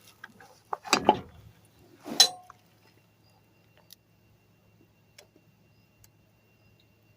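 Two sharp metallic clanks of tools and metal parts being handled during repair work, about one and two seconds in, the second with a brief ring, followed by a few faint ticks.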